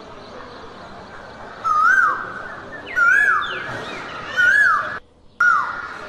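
A bird repeating a loud whistled call four times, about every second and a half. Each call is a quick rising-and-falling swoop that levels into a held note and then drops, over a steady hiss of jungle background. The whole sound cuts out for a moment about five seconds in.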